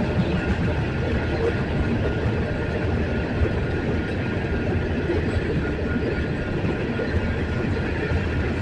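Union Pacific freight train rolling past, a steady rumble of wheels on rail.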